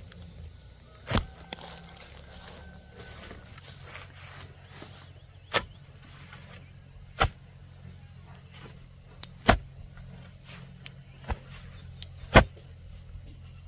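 About five sharp knocks, spaced irregularly a few seconds apart, over a steady high drone of insects.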